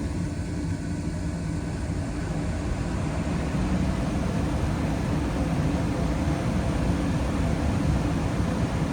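2019 Carrier Performance Series 80% gas furnace running: the draft inducer fan motor and lit burners make a steady low hum and rumble.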